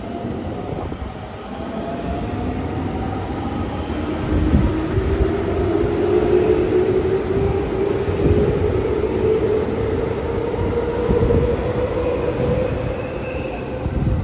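Electric commuter train pulling out of the station, its traction motors whining and rising slowly in pitch as it gathers speed over a steady rumble of wheels on rail. A few low thumps sound as it passes.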